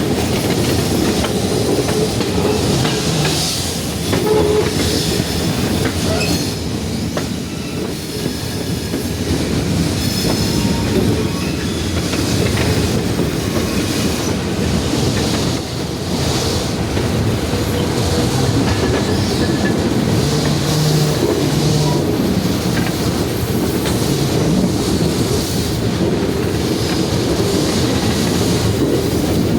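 Passenger train rolling along the track: a steady rumble of wheels on rail with a clickety-clack, and a faint high wheel squeal now and then.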